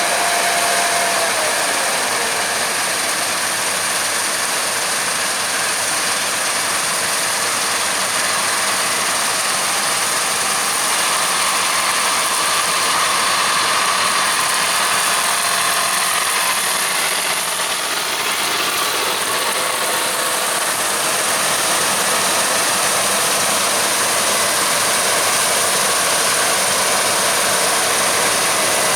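Claas Lexion 670 combine harvester combining wheat: a steady engine and machinery noise that holds level throughout.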